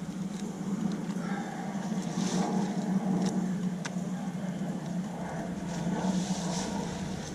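An engine running steadily at one speed, with scattered clicks and knocks over it.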